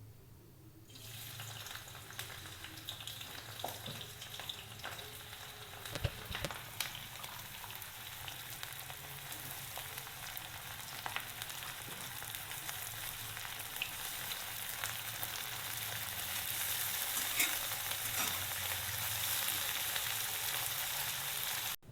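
Food frying in hot oil in a kadai: a steady sizzle that grows somewhat louder over the last few seconds, with a few sharp clicks, probably a spatula stirring.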